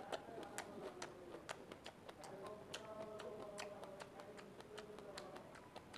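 A person chewing a bitten strawberry: irregular mouth clicks and smacks, several a second.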